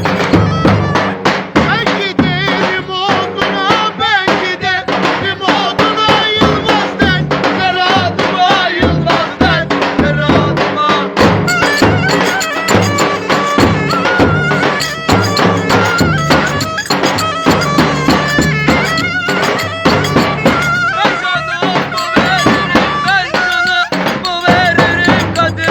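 Live Turkish folk dance music played by a wedding band: an ornamented, wavering lead melody over a dense, fast drum rhythm, running on without a break.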